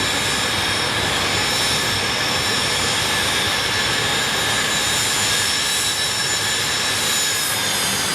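Turbofan engines of a BAe 146-300 jet airliner running with a steady high whine of several tones over a loud rush. The whine drops slightly in pitch near the end.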